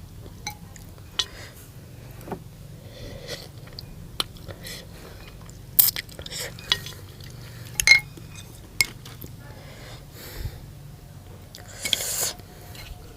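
Utensils clinking and tapping against a bowl during a meal of noodle soup: a scattered series of sharp clinks, with a longer, hissier burst of noise near the end.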